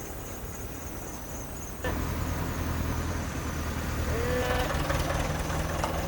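A steady high insect trill over quiet forest background cuts off about two seconds in. A louder steady low hum follows, with short rising pitched calls over it near the end.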